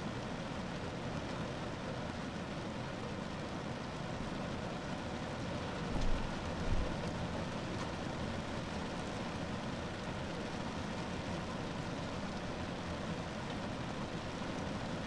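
Steady rain falling on a car roof, with two dull low thumps close together about six seconds in.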